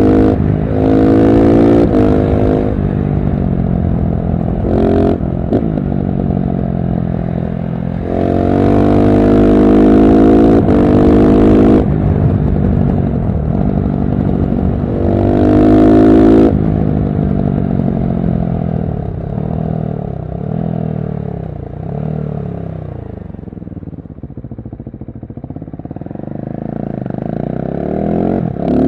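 KTM 690 SMC R's single-cylinder engine through a LeoVince One Evo slip-on exhaust, accelerating hard in three surges of rising pitch, then slowing with falling pitch and picking up again near the end.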